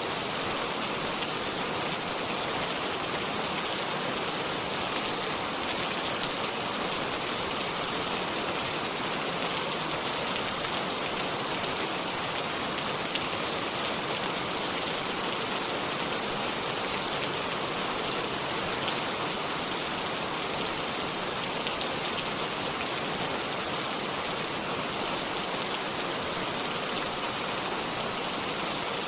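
Steady rainfall, an even hiss with fine scattered drops pattering on leaves and surfaces.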